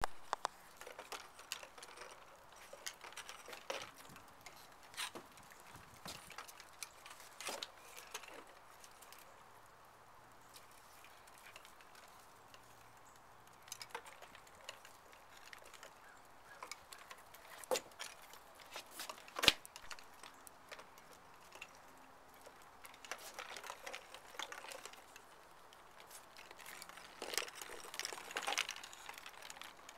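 Faint, irregular taps, clicks and scuffs from a puppy playing with a spider puppet on a deck, with a sharper knock about two-thirds of the way through.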